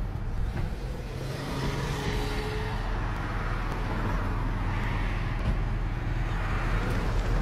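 Car engine idling with a steady low rumble, under the noise of street traffic.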